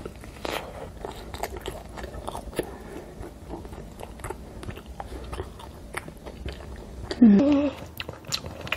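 Close-miked mouth sounds of biting into and chewing a cheese-topped sriracha sausage bread: many small wet clicks and crunches. About seven seconds in, a short hummed "mm" rises and then holds.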